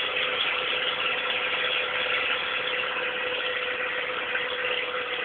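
Peugeot 106 1.1-litre four-cylinder petrol engine running at a steady speed with no exhaust system fitted, giving an unsilenced, even drone with one constant tone.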